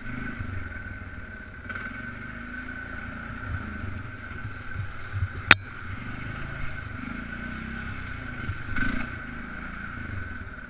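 Polaris Sportsman 500 ATV's single-cylinder engine running steadily while being ridden: a low rumble with a steady high tone over it. A single sharp click comes about halfway through.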